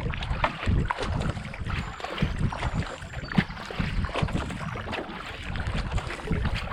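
Racing kayak being paddled on flat canal water: repeated paddle-blade splashes and water rushing along the hull, under a heavy rumble of wind on the microphone.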